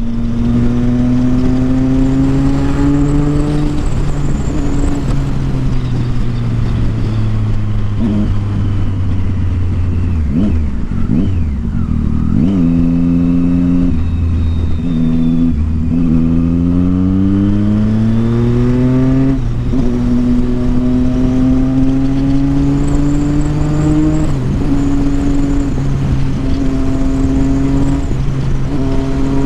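Triumph Street Triple 675's inline-three engine through an aftermarket Yoshimura exhaust, ridden hard through the gears. The engine note climbs and drops back with each upshift, eases off and rises again in several quick gear changes around the middle, then holds a steadier note near the end.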